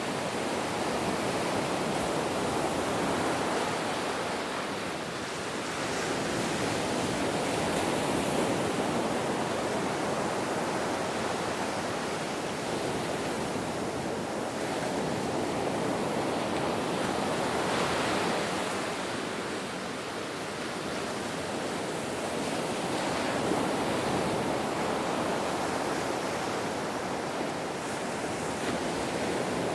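Ocean waves breaking and washing onto a shore, a continuous rushing surf that swells and eases slowly every several seconds.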